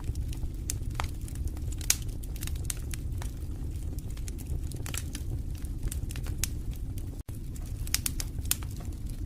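Wood fire in a fireplace crackling, with a steady low rumble of the flames and scattered sharp pops, one louder pop about two seconds in. The sound drops out for an instant about seven seconds in.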